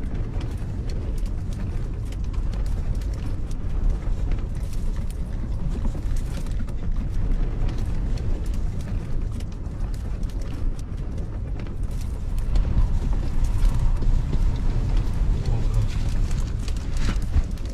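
Strong gusty wind buffeting the microphone with a low rumble, swelling in gusts in the second half, mixed with scattered clatter and creaks of things shaken by the wind.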